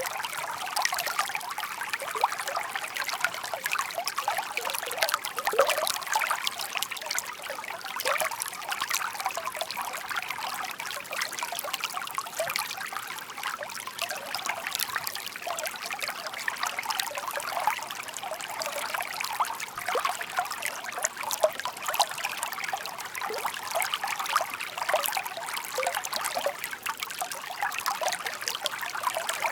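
Shallow babbling brook: water trickling and splashing steadily over stones, with a constant fine gurgle.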